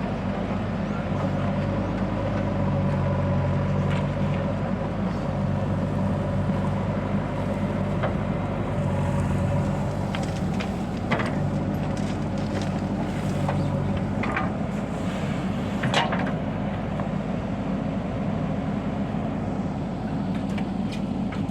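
Diesel engine of heavy earth-moving or farm machinery running steadily, with several sharp knocks scattered through.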